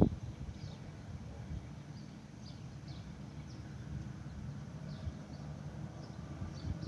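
Outdoor ambience: a steady low rumble with faint, scattered short bird chirps.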